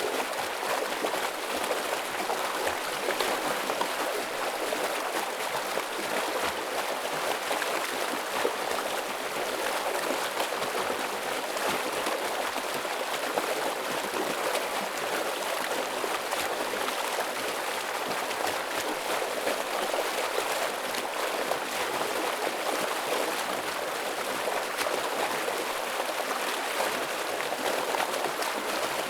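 Stream water rushing and splashing over rocks in a steady, full flow, with no pauses or changes.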